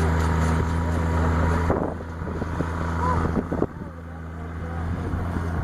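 Case 170 CVX tractor running steadily with a Welger baler at work, a low engine drone. About two seconds in the drone drops in level and slowly comes back, with a few knocks in between.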